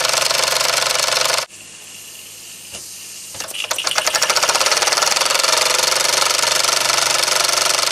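Restored Mamod model steam engine running fast with rapid, even chuffing beats. About a second and a half in the sound drops away suddenly, then about two seconds later the beats come back, quickening and growing louder until the engine is running at full speed again.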